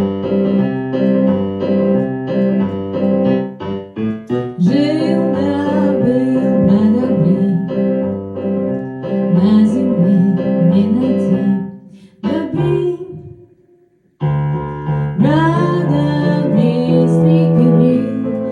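A woman sings with her own piano-keyboard accompaniment. The keyboard chords start alone and her voice joins about four seconds in. The music breaks off briefly around twelve seconds in and starts again about two seconds later.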